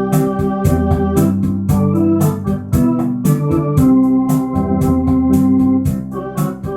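Electronic organ playing a melody over sustained chords, with its built-in rhythm section keeping a steady rumba beat.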